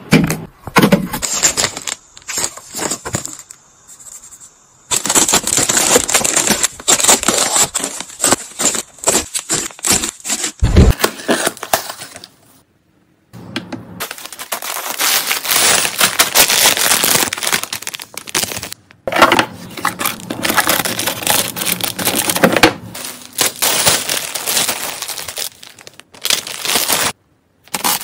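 Plastic snack packaging handled up close, crinkling and crackling with bursts of tearing, in stretches of several seconds broken by abrupt cuts to silence.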